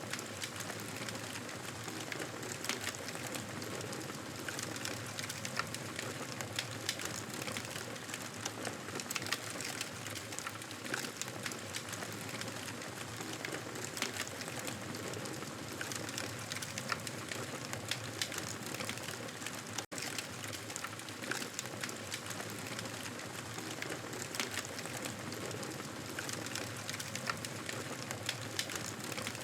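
Wood fire crackling and popping in a fireplace: a steady hiss with many small sharp snaps scattered through it. The sound drops out for a split second about twenty seconds in.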